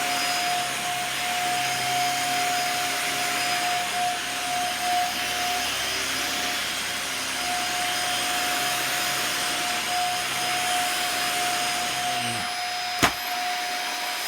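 Dyson DC50 upright vacuum cleaner running during a floor pickup test: a steady high motor whine over the rush of airflow. A single sharp click comes near the end.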